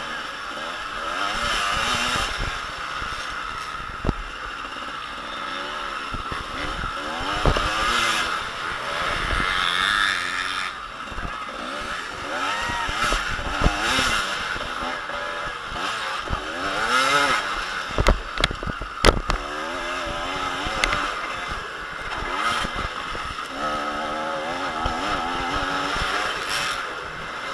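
Motocross bikes' engines revving up and down, several at once, rising and falling in pitch as they ride the track. A few sharp knocks are heard along the way.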